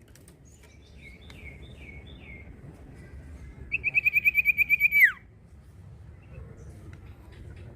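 Common iora singing: a few short down-slurred whistles, then a loud rapid trill of about a dozen notes that ends in a steep falling sweep.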